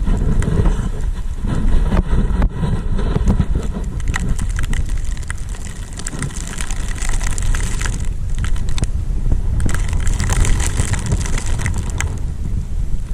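Wind buffeting the microphone in a low, loud rumble, with the hiss and scrape of a snowboard sliding over snow that swells and fades.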